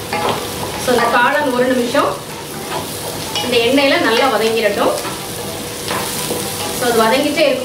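Sliced onions and mushroom pieces sizzling in oil in a non-stick pan, stirred briskly with a wooden spatula in repeated scraping strokes.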